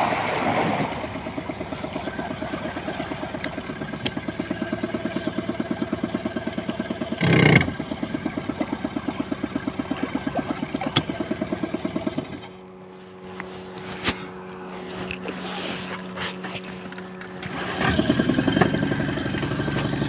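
Suzuki DF15 two-cylinder four-stroke outboard motor running at idle with a steady, rapid pulse and one loud burst about seven seconds in. About twelve seconds in the pulsing stops and a quieter steady hum remains, before a louder engine sound returns near the end.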